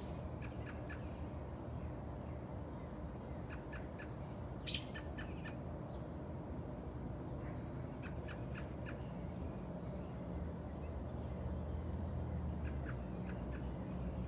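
Small birds chirping in short clusters of brief peeps, a few times over, over a steady low rumble.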